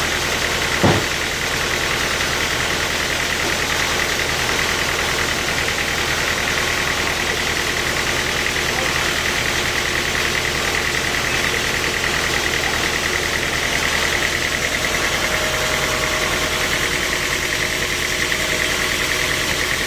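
Sawmill machinery running steadily, with one short knock about a second in.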